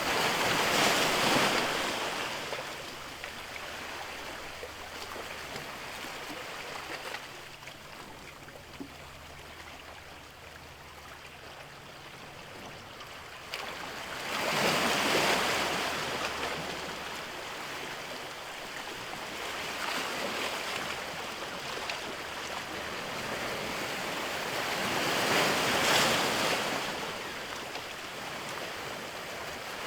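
Ocean waves breaking and washing in, a steady surf hiss that swells into loud surges about a second in, about halfway through, and twice more in the last third. A faint low drone sits underneath during the first half.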